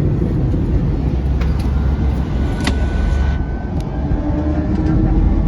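Airbus A321 airliner noise: a loud, steady low rumble, with a few sharp clicks or knocks about halfway through.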